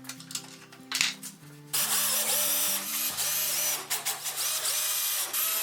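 Electric drill running under load, starting just under two seconds in, its whine wavering and dipping several times as it bites. Background music plays throughout, and there is a sharp knock about a second in.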